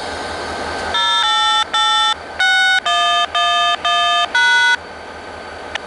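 Touch-tone (DTMF) tones keyed over a railway radio channel and heard through a scanner: about eight short tone beeps in quick succession over radio hiss. It is a tone code sent to an automated railway system, answered right after by a synthesized voice reporting a crossing activated.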